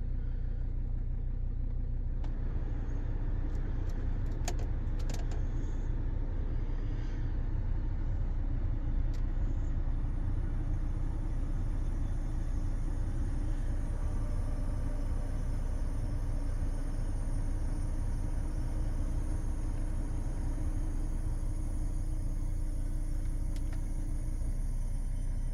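2014 Volvo XC60 2.4 D4 five-cylinder diesel running with a steady low rumble and a hissing sound over it. About ten seconds in, a thin, high steady tone comes in and holds.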